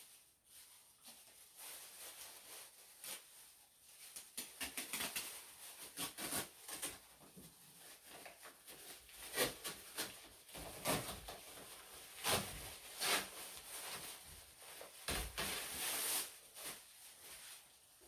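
Irregular clicks, knocks and rustling from hands-on handling work, loudest around the middle.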